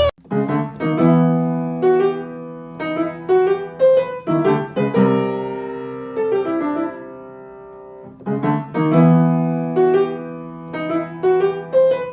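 Piano playing a slow melody over chords, its notes fading after each strike; the phrase starts over about eight seconds in.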